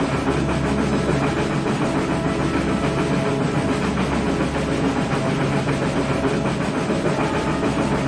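Steady running-train noise: a continuous rumble with a low hum that holds even throughout.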